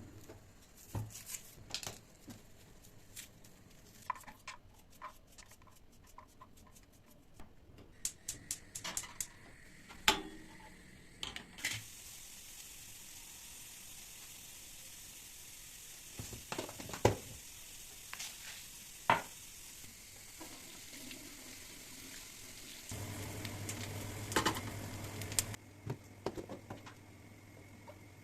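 Kitchen clatter of small clicks and knocks from utensils and dishes, then food sizzling steadily for about fourteen seconds. A low steady hum comes in near the end.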